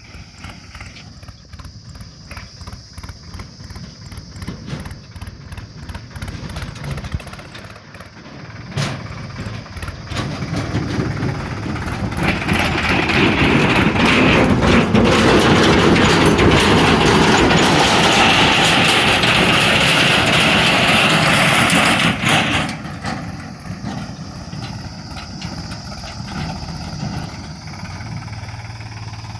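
Diesel engine of a JCB 3DX backhoe loader running, climbing to a loud, hard-working run for about ten seconds in the middle, then dropping back suddenly to a lower level.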